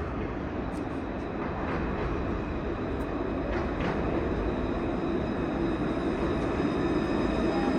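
Tram running with a steady rumble that grows slowly louder, with a faint high whine coming in about halfway through.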